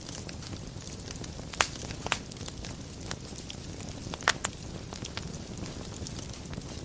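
Wood fire burning in a fireplace: a steady low rumble and hiss with scattered crackles and a few sharp pops, the loudest about four seconds in.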